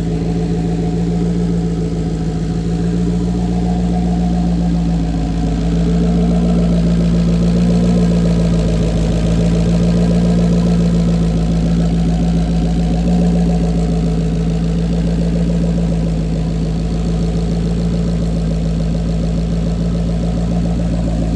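Single-turbo S550 Ford Mustang engine idling steadily on a base tune, with a slight swell in level for a few seconds midway.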